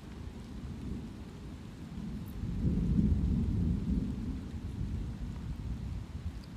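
A low roll of thunder over steady light rain. It builds about two seconds in, is loudest a second later, and fades away over the next few seconds.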